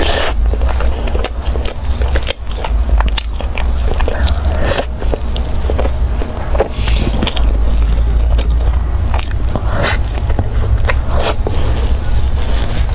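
Close-miked biting and chewing of a round baked pastry bun, with many short crackly bites and wet mouth sounds. A steady low rumble runs underneath.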